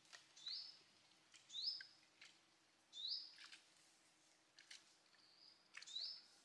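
Faint bird calls: four short notes, each sweeping sharply up and then holding high, about one to three seconds apart, with a few sharp clicks in between.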